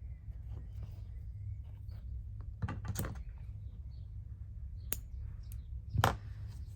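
Soft handling sounds of hand embroidery: a needle and thread drawn through fabric, with scattered light clicks and rustles. The loudest come about three and six seconds in, over a steady low hum.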